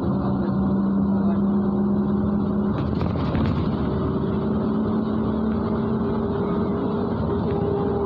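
Cabin sound of a MAZ-103 city bus under way: a steady engine and drivetrain hum over road noise. About three seconds in, the hum breaks off amid a brief rattle, then settles again at a different pitch.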